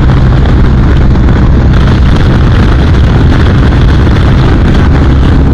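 BMW R 1250 RT's boxer twin engine running at a steady cruise, mixed with wind noise on the microphone.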